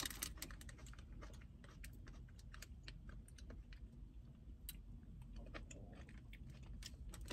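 Faint chewing of grapes: a scattered string of small, quick mouth clicks and smacks.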